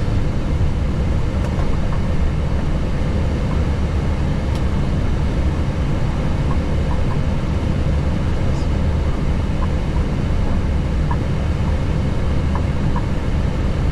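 Steady low rumble in an Airbus A321neo cockpit while taxiing, engines at idle.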